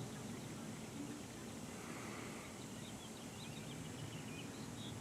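Faint bird chirping: a quick run of short, high chirps about halfway through, over steady low outdoor background noise.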